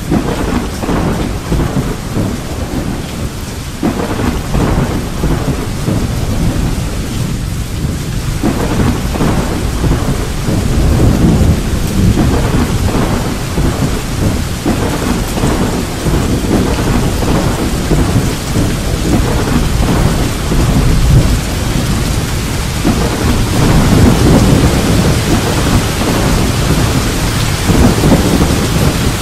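Thunder rumbling and rolling almost without pause, swelling several times, over steady rain hissing.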